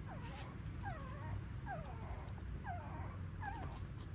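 Young puppies whimpering: short, thin, high cries that fall in pitch, about two a second, over a steady low hum.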